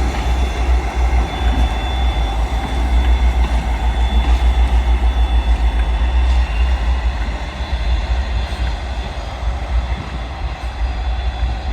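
Train running at the station platform, a loud steady low rumble that eases off somewhat in the second half.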